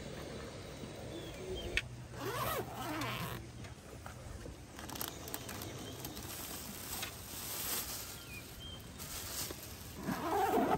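Zipper drawn open around a Naturehike soft cooler bag about two seconds in, followed by the crackle of plastic bags of food being handled and lifted out.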